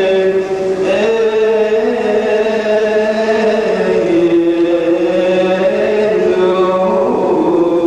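Coptic liturgical chant: a priest's male voice holding a long melisma on a single vowel, sustained notes stepping up and down in pitch every second or so without a break.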